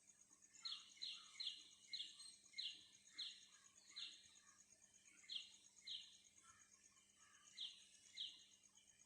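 Faint bird calls: about eleven short notes, each falling in pitch, in a run of seven followed by two pairs. A steady high insect trill runs underneath.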